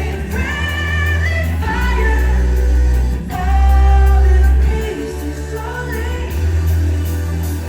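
Live pop music at a concert: a voice singing a melody over heavy, sustained bass.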